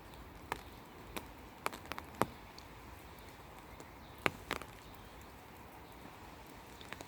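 Quiet outdoor garden ambience: a low steady hiss with about seven short sharp ticks scattered through it, the loudest about two and four seconds in.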